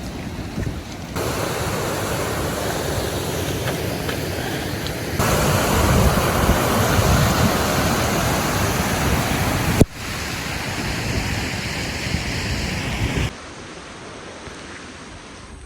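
Heavy rain falling: a steady, dense hiss that changes abruptly in loudness several times, louder about five seconds in and quieter again near the end.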